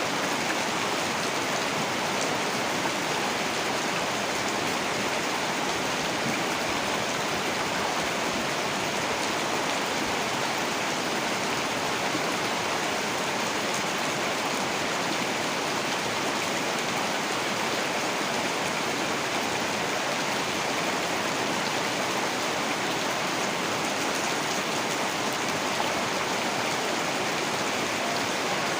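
Heavy rain falling in a steady, dense hiss with no breaks or distinct drops standing out.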